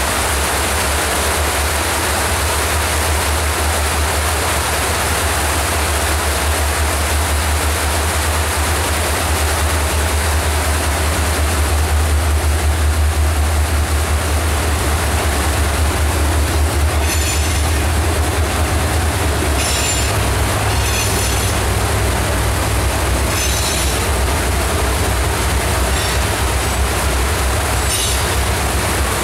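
A freight train led by two EMD SD40-2 diesel locomotives passes over a wooden trestle above a rushing creek. The locomotives' low engine rumble builds over the first half. Then covered hopper cars roll by with about six short, high-pitched wheel squeals.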